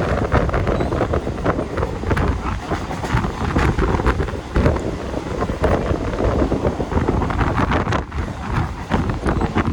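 Mumbai local train running, a steady rumble with many irregular knocks and clicks from the wheels and carriage, and wind buffeting the microphone.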